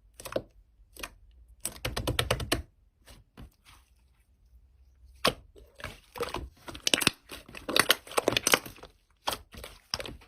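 Slime being squeezed and poked by hand, making sharp clicks and crackles. A quick rattle of clicks comes about two seconds in, and denser crackling follows in the second half.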